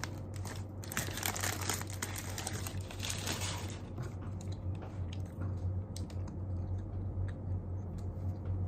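Crinkling and rustling for the first few seconds, then scattered small clicks and taps from handling things at a desk, over a steady low hum.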